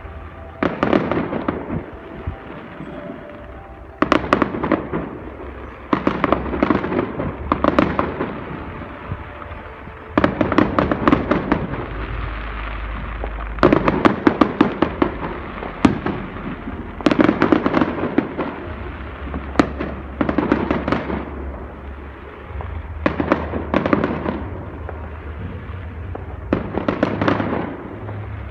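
Fireworks going off in about a dozen bursts of rapid crackling, a new burst every two or three seconds, over a low rumble.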